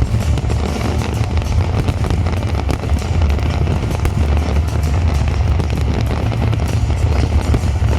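Fireworks display: many rapid bangs and crackles over a steady low rumble.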